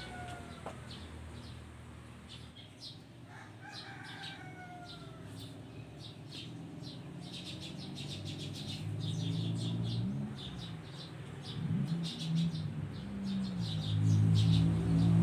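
Birds calling: two falling calls in the first few seconds and rapid high chirps throughout. A low drone builds in the second half and is loudest near the end.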